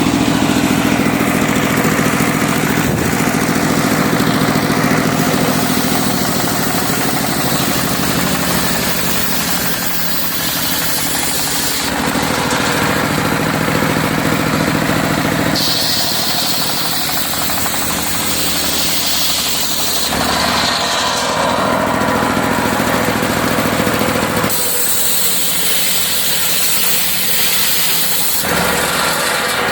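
Serkel circular sawmill running with its engine going steadily while sawing teak. The sound changes abruptly several times, with brighter, higher-pitched stretches that suggest the blade cutting through the wood.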